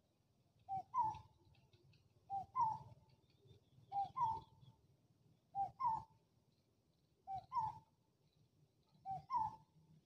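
A bird repeating a two-note call, a short lower note followed by a slightly higher, longer note, six times at an even pace of about one call every second and a half.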